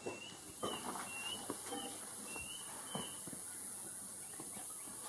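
Short chirping bird calls, about six over the first three seconds, over a steady high hiss that begins about half a second in, with a few soft knocks and shuffles from handling.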